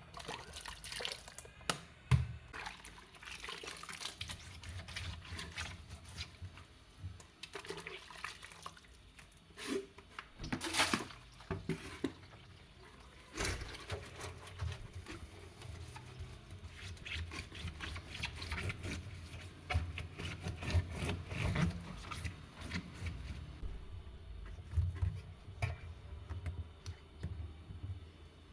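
Liquid being poured and splashing, with irregular clicks and knocks of handling throughout.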